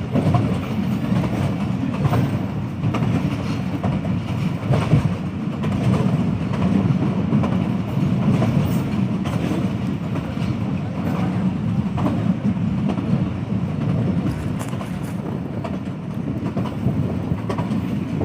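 Passenger train running along the line: a steady low rumble from the coaches, with scattered clicks and knocks as the wheels pass over the rail joints.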